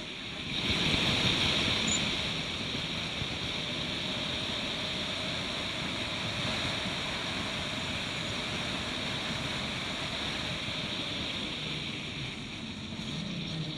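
Turbocharged Suzuki Swift race car running at speed: a steady rushing noise of engine, tyres and wind. A lower, steadier engine hum comes through near the end.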